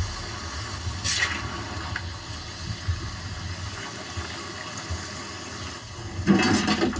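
Chicken frying in a wide pan of ghee: a steady sizzling hiss. About six seconds in it swells into a louder burst of sizzling and scraping as more pieces are ladled into the pan.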